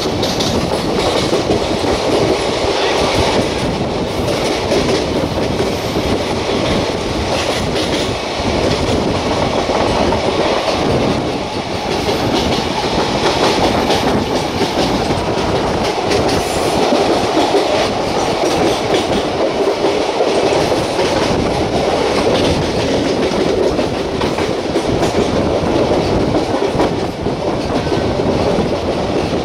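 Express passenger train coach running along the rails at speed, heard from an open window or door at the coach's side: a steady rumble of wheels on track with clickety-clack over the rail joints.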